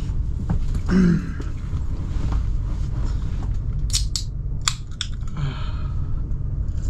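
Converted shuttle bus driving slowly over a rough dirt road, heard from inside the cab as a steady low rumble. A few sharp clicks and rattles come between about four and five seconds in.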